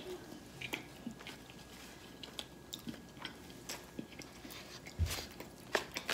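A person chewing a bite of fried chicken sandwich: faint scattered crunches and wet mouth clicks, with a dull thump about five seconds in.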